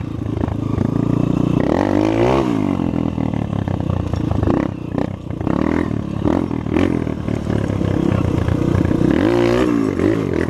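Trail motorcycle engine running hard off-road, the revs rising and falling sharply about two seconds in and again near the end, with scattered knocks and rattles.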